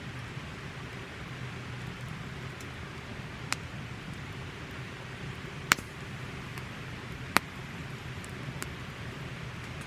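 Wood campfire burning with a steady hiss, broken by a few sharp pops and crackles, two of them loud in the middle.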